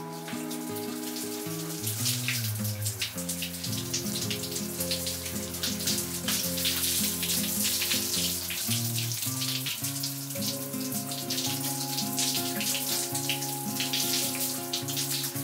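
Water running from a tap or shower spray, starting about two seconds in, over background music with steady held notes.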